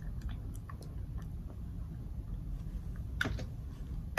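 A person chewing a mouthful of food, with small wet mouth clicks and a sharper click a little after three seconds in, over a low steady hum.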